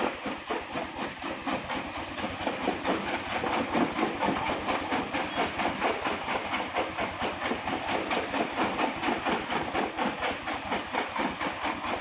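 Heavy brick-breaking machine running, with a steady rhythmic clatter of repeated knocks a few times a second.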